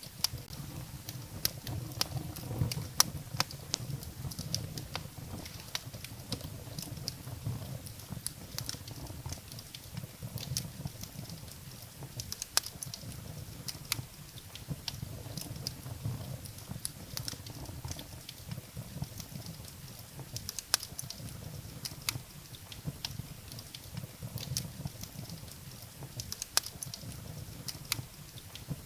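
Wood fire burning in a fireplace: irregular sharp crackles and pops of burning firewood over a low, steady rumble of the flames.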